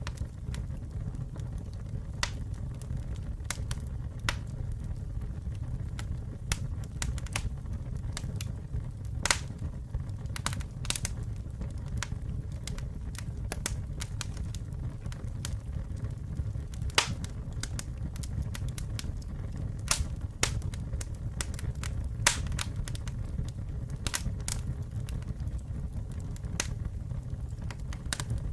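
Wood campfire burning with a steady low rumble and irregular crackling, sharp pops breaking through every second or so, a few louder ones.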